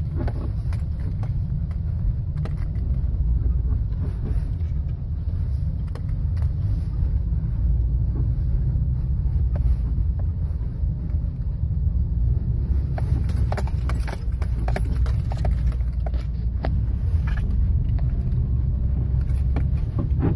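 Car cabin road rumble with intermittent rubbery squeaks from aftermarket Masuma front anti-roll bar bushings on a Toyota Corolla as the suspension works over bumps; a squeak like this on bumps is the sign of the stabilizer bar bushings.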